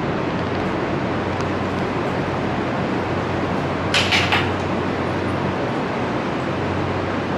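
Steady mechanical hum and noise of an electric train's equipment at a station platform, with a short hiss about four seconds in.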